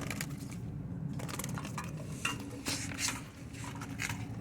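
Scattered brief rustling and scuffing noises over a steady low hum.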